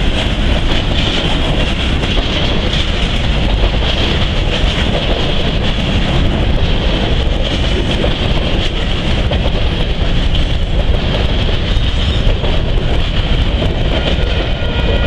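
Freight train of covered grain hopper cars rolling past: steady, loud wheel-on-rail noise as the last cars go by near the end.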